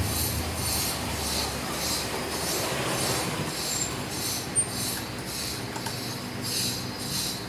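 Rhythmic high-pitched rasping and squeaking, about twice a second, from hands working a wire joint on a ceiling fan's capacitor and winding leads.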